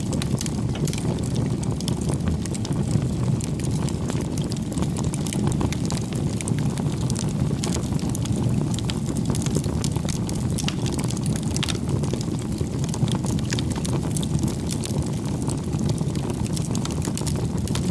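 Campfire burning: a steady low rush from the flames, with scattered sharp crackles and pops of burning wood throughout.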